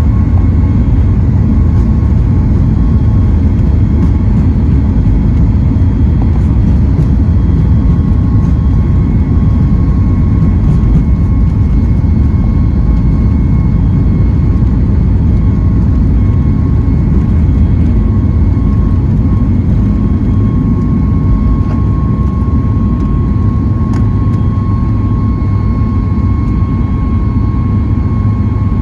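Boeing 737 MAX 8's CFM LEAP-1B turbofan engines running at takeoff thrust, heard from inside the cabin as a loud steady rumble with a steady whine. The whine grows a little stronger past the middle.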